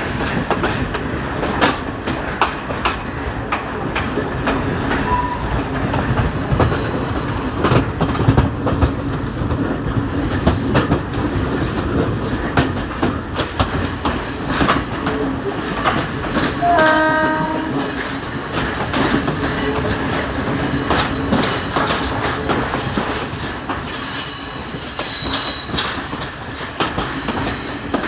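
Local passenger train running along the track, heard from aboard, its wheels clattering and clicking over the rail joints. A brief horn note sounds a little past halfway through.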